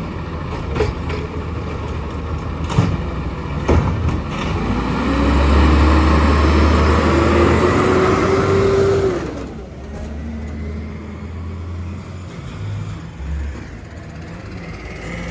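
Garbage truck engine revving up for about five seconds, its pitch rising steadily, then dropping back to a quieter idle; a few sharp metal clanks come before the rev.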